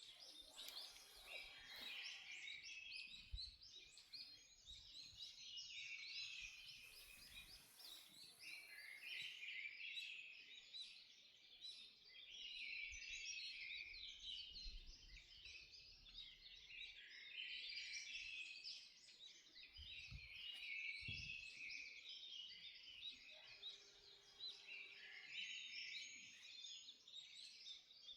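Dawn chorus of many songbirds in a forest, faint, with dense, overlapping high chirps and trills from several birds singing at once.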